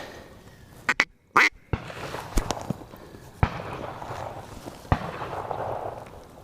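Ducks quacking, two short calls about a second in. This is followed by a few seconds of rustling, broken by several sharp cracks.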